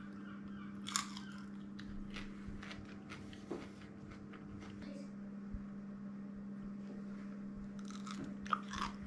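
Chewing and biting crispy deep-fried whitebait, with sharp crunches about a second in and again near the end, over a steady low hum.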